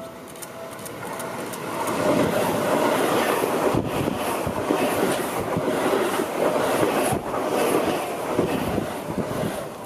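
Electric train on the Seibu Ikebukuro Line passing by: its running noise builds over the first two seconds, stays loud with a quick run of knocks from the wheels, and eases off near the end.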